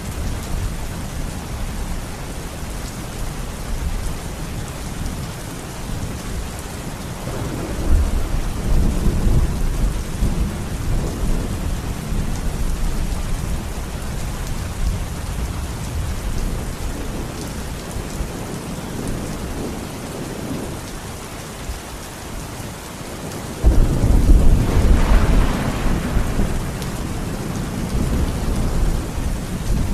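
Thunderstorm: steady heavy rain with rolling thunder. A rumble swells about eight seconds in, and a louder, sharper crack of thunder breaks about twenty-four seconds in and rumbles away over several seconds.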